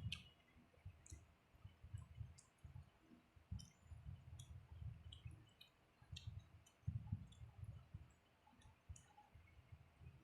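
Faint close-miked eating sounds of a person chewing: soft irregular low thuds from chewing and small sharp mouth clicks and smacks, several a second.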